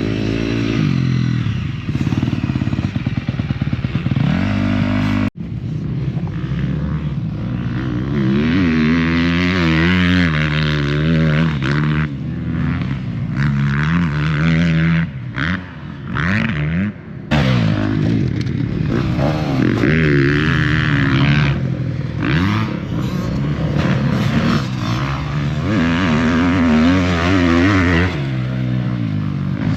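Motocross dirt bike engines revving, the pitch rising and falling over and over as the throttle is worked. The sound breaks off abruptly about five seconds in and picks up again.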